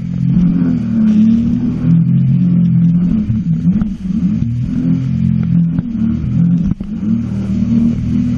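Sea-Doo jet ski engine running under way, its pitch rising and falling as the throttle and speed change, with a few brief knocks.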